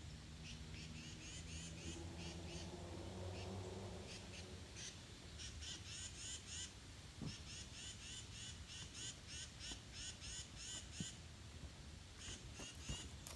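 A bird chirping over and over, with short high chirps several times a second. A faint low hum fades out about four seconds in.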